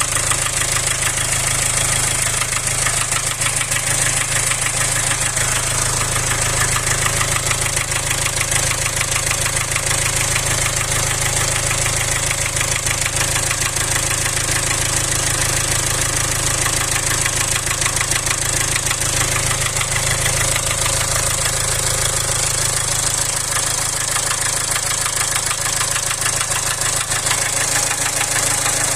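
Jaguar Land Rover Ingenium engine running steadily with a continuous rhythmic knock, which the owner attributes to scoring in the first cylinder.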